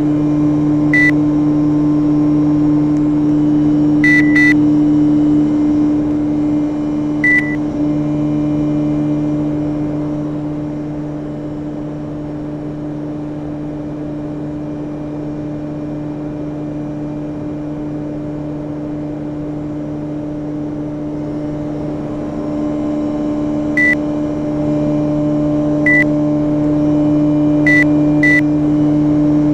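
Panasonic inverter air conditioner running with a steady low hum. The hum drops somewhat in the middle and comes back up. Short high beeps, some single and some in quick pairs, come several times near the start and again near the end.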